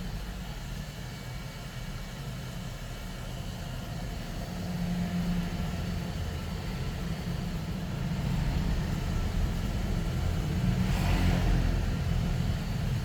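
Low steady rumble of background traffic, growing louder in the second half, with a brief rushing noise about eleven seconds in.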